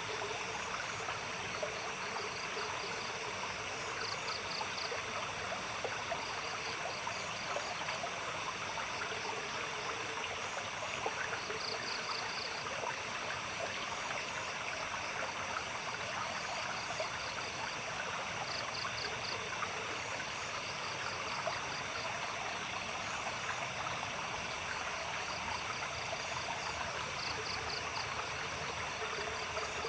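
Steady trickling stream with night insects calling over it: short trains of rapid chirps recurring every second or two, above a constant high-pitched drone.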